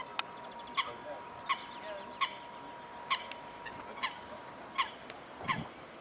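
A bird calling over and over, short sharp falling notes about every three-quarters of a second, with a steady thin whine underneath that stops about two-thirds of the way through.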